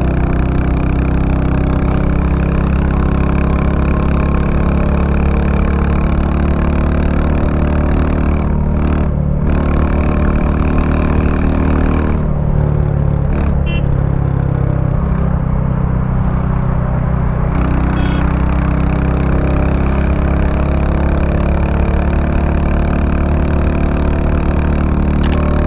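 A 2023 Royal Enfield Bullet 350's single-cylinder engine running through its stock exhaust while the bike is ridden. The note is steady and thumping low down, and its upper part thins out briefly twice, about a third and about halfway through.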